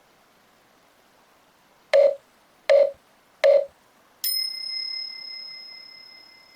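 Three short beeps about three-quarters of a second apart, then a higher ringing chime that slowly fades, like a countdown or time-signal tone.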